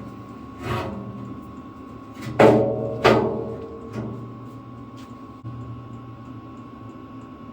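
Metal parts knocking and clanking together as they are handled and fitted, four knocks that each ring briefly, the loudest two about two and a half and three seconds in, over a steady low hum.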